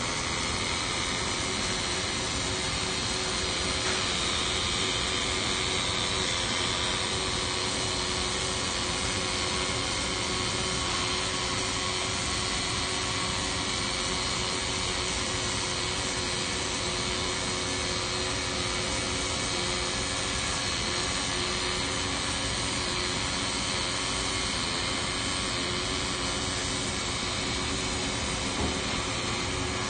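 Steady drone of factory machinery and ventilation, an even rushing noise with a constant low hum that does not change.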